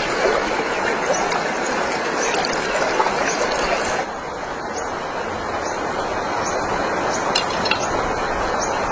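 Mountain stream flowing: a steady rush of water with a few faint clinks. About four seconds in the sound changes abruptly and becomes less hissy.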